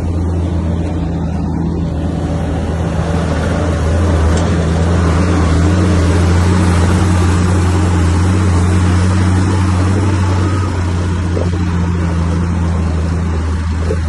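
Komatsu bulldozer's diesel engine running steadily with a low hum. It grows louder about four seconds in as it works, and eases back after about ten seconds.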